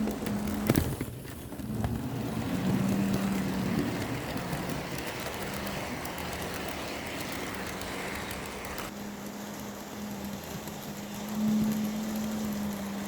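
HO scale model locomotive running around the layout: a steady motor hum that swells and fades, with the rattle of wheels on the track and a sharp click about a second in.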